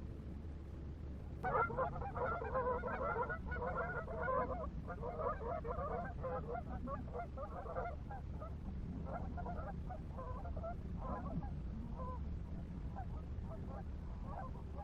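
Flock of geese honking, many calls overlapping at once. The calls break out about a second and a half in, then thin out and grow fainter, with scattered honks continuing.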